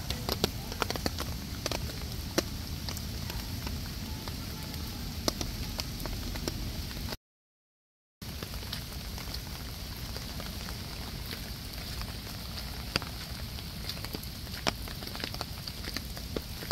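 Water spraying and splashing: a steady rushing hiss dotted with many small drips and splashes. The sound cuts out completely for about a second a little past the middle.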